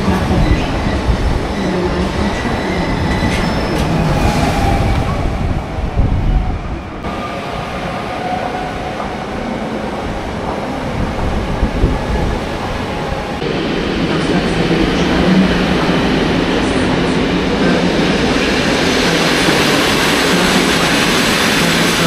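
Passenger trains moving through a station: electric multiple units, then the coaches of a locomotive-hauled train rolling past, with steady wheel-on-rail noise and some wheel squeal. The sound changes abruptly about seven seconds in and again about halfway through.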